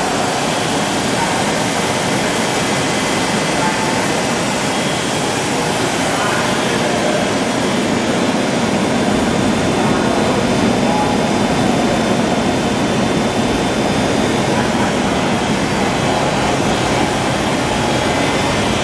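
Studer S40 CNC cylindrical grinder running under power, a steady, unbroken machine noise with faint fixed tones throughout.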